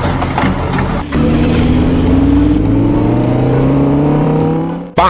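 An engine running and steadily rising in pitch, as in a long acceleration, for about four seconds. It drops away near the end, just before a quick rising sweep.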